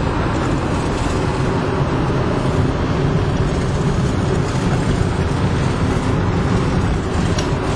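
Steady road and engine noise heard from inside a car's cabin while it drives along.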